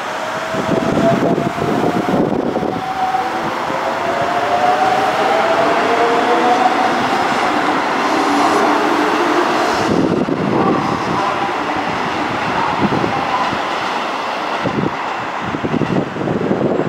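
Electric commuter train passing close by, its motor whine climbing slowly in pitch as it accelerates, over steady wheel-on-rail noise with short bursts of clatter near the start and end.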